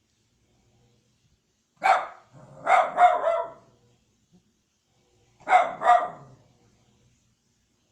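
A fluffy pet dog barking in loud, sharp bursts: one bark, then a quick run of about three, then two more near the end. The owners figure he is barking at the washing machine.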